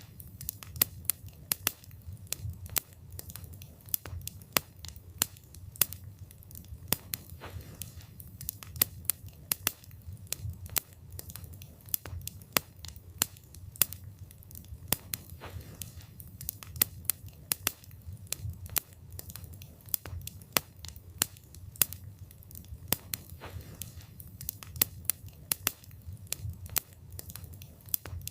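Wood fire burning, the logs crackling and popping in irregular sharp snaps, several a second, over a steady low rumble of flame.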